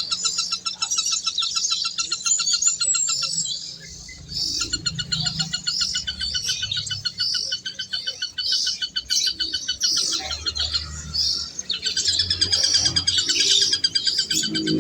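Birds chirping in long, rapid trains of repeated high chirps, with a brief pause about four seconds in and looser, scattered calls in the second half.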